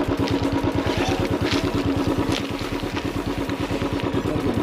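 Royal Enfield Classic 350's single-cylinder engine running steadily, an even beat of firing pulses at an unchanging pitch.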